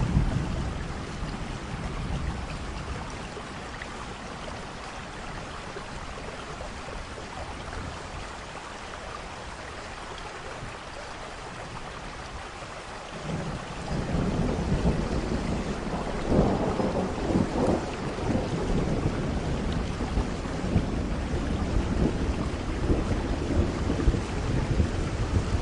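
Thunderstorm: steady rain with thunder. A low thunder rumble at the very start fades, leaving rain alone for several seconds, then about halfway through a long rolling rumble of thunder builds and keeps pulsing, loudest a few seconds after it begins.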